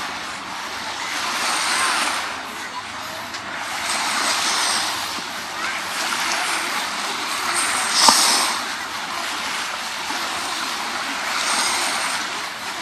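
Small sea waves washing onto a sandy beach, the surf swelling and easing every few seconds, with one sharp splash or knock about eight seconds in.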